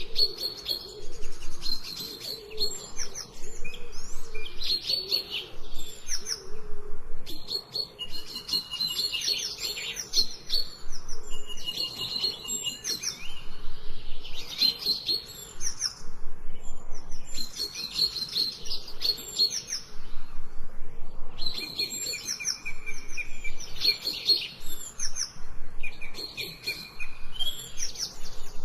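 Several small birds chirping and singing together, with quick runs of high chirps that come in bursts every second or two and a few longer held whistled notes.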